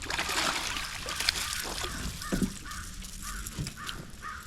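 A crow cawing: a quick run of short, repeated caws through the second half, over a light trickle of water.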